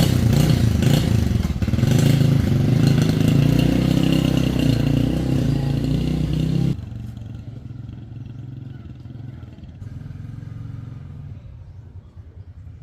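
Motorcycle engine running loudly with changes in pitch as it revs. A little past halfway it cuts off abruptly, leaving a much fainter low hum.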